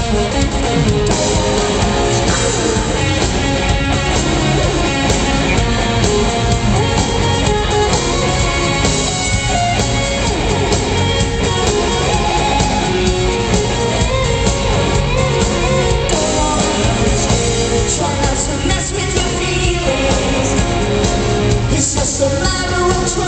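Live rock band playing loudly through an arena PA, with drums, guitars and a female lead vocal, recorded from the crowd.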